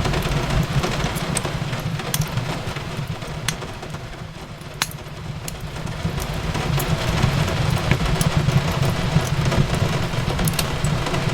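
Fireplace crackling, with scattered sharp pops over a steady low rumble and the even hiss of rain on a window; the level dips briefly near the middle.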